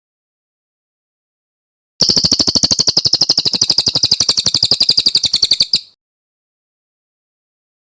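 Brown cililin songbird singing one long, fast trill of rapidly repeated high notes, starting about two seconds in and lasting nearly four seconds, with silence before and after.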